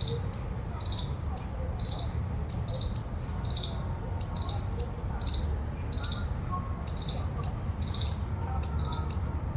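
Insects trilling steadily at a high pitch, with short chirps repeating about two to three times a second and a low rumble underneath.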